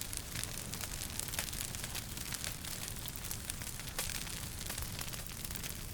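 Wood fire crackling in a fireplace: frequent sharp pops and snaps of uneven strength over a steady hiss and low rumble of burning.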